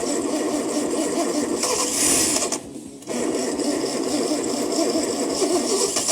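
Chevrolet stovebolt inline-six being cranked over by its starter for its first start after a rebuild: a rapid, even whirring that has not yet caught. The cranking stops briefly about two and a half seconds in, then resumes.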